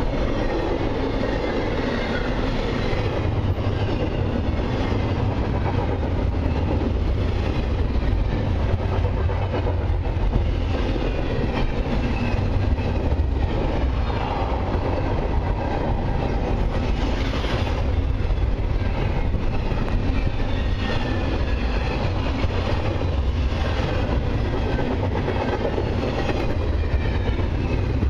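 Double-stack container cars of a long freight train rolling steadily past: a continuous rumble of steel wheels on rail with a clickety-clack of wheels over the rail joints.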